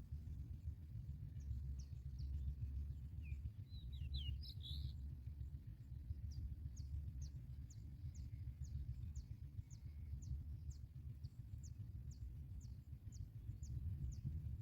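Small bird chirping over a steady low rumble: a few quick chirps about four seconds in, then a regular run of short, high, thin notes, about two a second.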